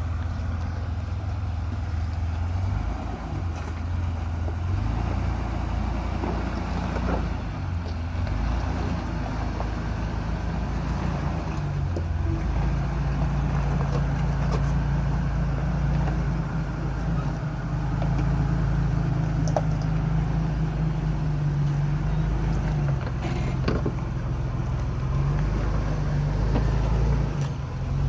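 Jeep Wrangler engine running while driving a rocky off-road trail. Its low note steps up about twelve seconds in and shifts again near the end, with a few light clicks and knocks over it.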